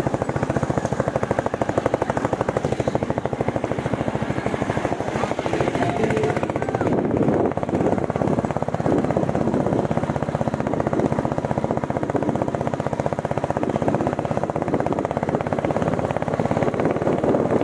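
Royal Enfield Bullet 350's single-cylinder engine running while the motorcycle is ridden on a rough dirt track, a steady fast thumping of firing pulses.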